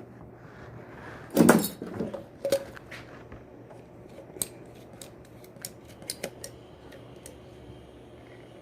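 Small metal tools and parts being handled during a repair: a loud clatter about one and a half seconds in, then a run of sharp light metallic clicks and ticks, spaced irregularly.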